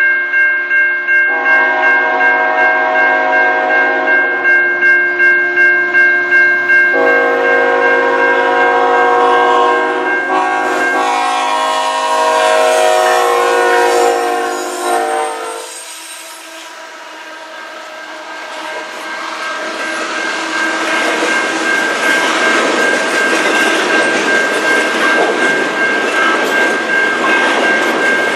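Diesel locomotive air horn sounding a series of blasts for the grade crossing over a level-crossing bell that rings steadily throughout. After the horn stops, the rumble and clatter of a double-stack intermodal freight train's cars passing close by builds up, with the bell still ringing.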